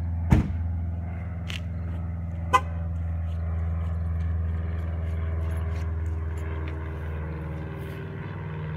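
Ford Mustang engine idling steadily, with a sharp knock about a third of a second in and a short horn chirp about two and a half seconds in.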